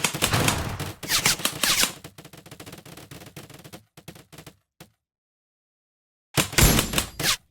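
Airsoft gun firing rapid full-auto bursts, a fast run of sharp clicks. After about two seconds the clicking grows fainter, stops dead for over a second, then comes back as one more loud burst near the end.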